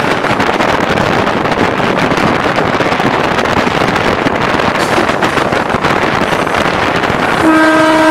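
Steady wind and running noise in the cab of a moving Class S11 DEMU train. Near the end the train's horn starts one steady blast.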